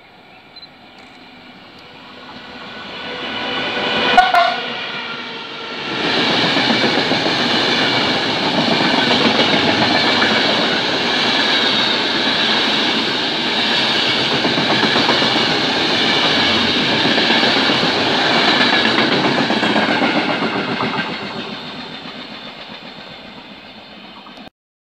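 FS E.402B electric locomotive approaching with a whine of several steady tones that swells, and a brief horn blast about four seconds in. Then comes a long, loud rush and rail clatter as its express coaches pass for about fifteen seconds, fading near the end before cutting off abruptly.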